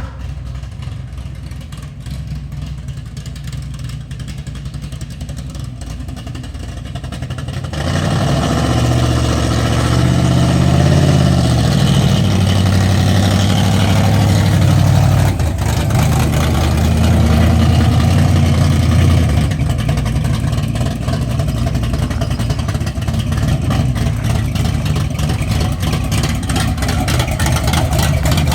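Truck engine running: a low steady idle that gets louder about eight seconds in, the pitch rising and dipping for a few seconds, then settling to a steady run from about twenty seconds.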